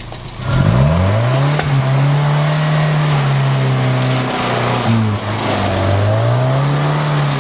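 Vehicle engine revving up from about half a second in and held at high revs. It drops back briefly around the middle, then climbs again near the end.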